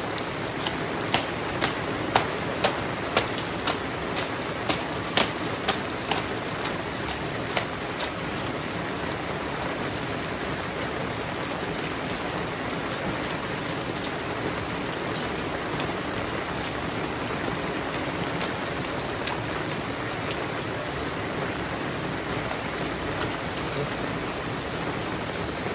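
Heavy rain falling steadily. During the first eight seconds there are loud, sharp drop impacts, about two a second.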